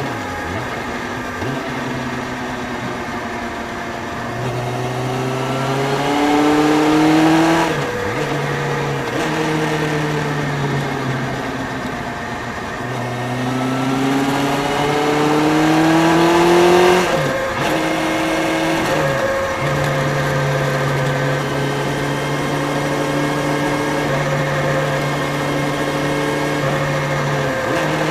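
Motorcycle engine under way. Its pitch climbs twice as the bike accelerates, dropping sharply at each gear change, then settles into a steady cruise. Light wind noise sits underneath.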